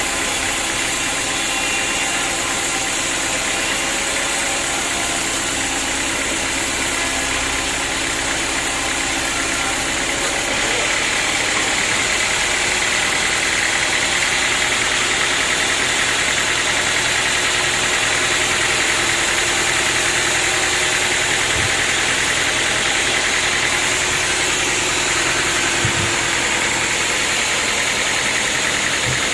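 Sawmill machinery running steadily while cutting wood. About ten seconds in, the sound changes from a humming note to a brighter hiss.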